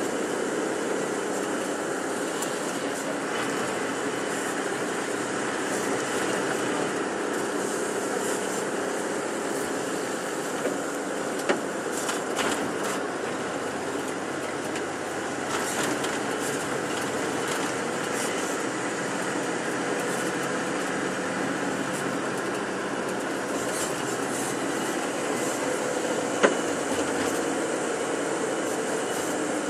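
Bus driving along a road, heard from inside the passenger cabin: steady engine and road noise, with a sharp knock or rattle about eleven seconds in and another near the end.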